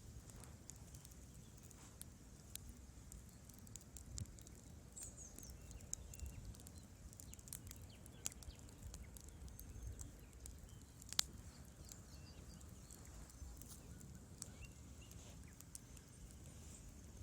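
Wood fire burning in a fireplace, quiet crackling with scattered sharp pops and a low rumble of the flames; one pop about eleven seconds in is the loudest.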